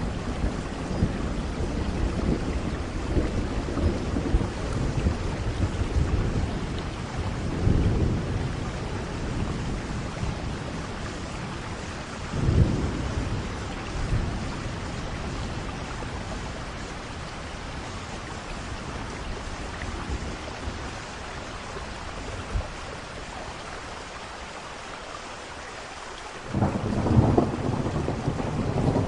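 Thunderstorm: steady rain with rolling thunder. The rumble is heavy at first, a sharper thunderclap comes about twelve seconds in, the storm eases to mostly rain, then a loud peal of thunder breaks out near the end.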